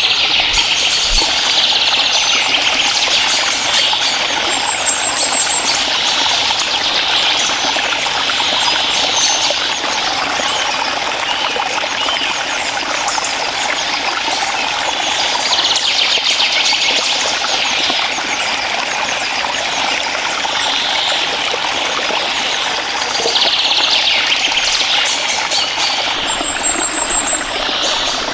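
Water trickling and flowing steadily in a small stream, with two brief high chirps, one about five seconds in and one near the end.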